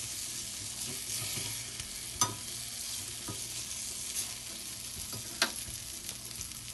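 Liver, kidney, onions and chili peppers sizzling as they fry in a cast-iron skillet, stirred with a metal spoon that scrapes through the food and knocks sharply against the pan, loudest about two and five seconds in.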